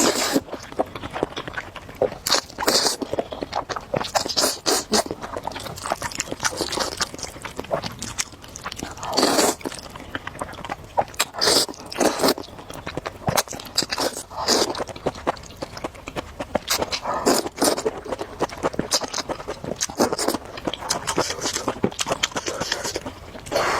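Close-miked eating of spicy instant noodles: repeated wet slurps and chewing, in irregular bursts with short pauses between.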